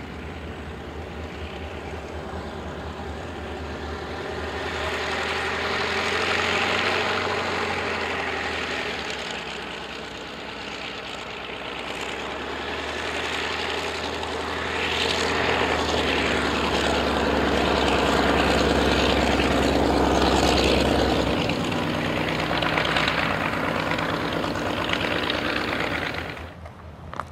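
Radio-controlled model aeroplane's engine and propeller running in flight. The sound swells and fades as the plane passes, is loudest a little past the middle, and drops away sharply near the end.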